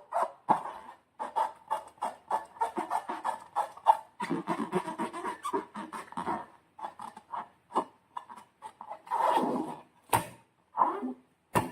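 Slime being squeezed and stretched by hand: a rapid, irregular run of wet, sticky squelches and crackles. Two sharper snaps or knocks come near the end.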